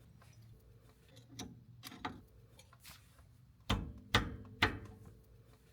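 Light clicks, then three sharp metallic knocks about half a second apart a little past the middle: hand tools and parts being handled at a caravan wheel hub during a bearing service.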